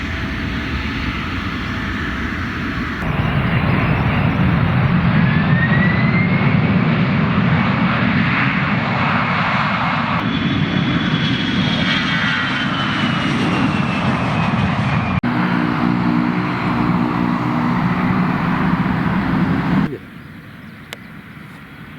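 Airliner engines running loud and steady as an aircraft moves at the airport, with a high whine that rises and later a long falling whine. The sound changes abruptly several times and drops off sharply about two seconds before the end.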